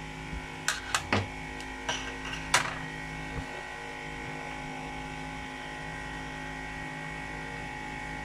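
Several short clicks and taps from small tools handled on a workbench during the first three seconds, over a steady electrical hum.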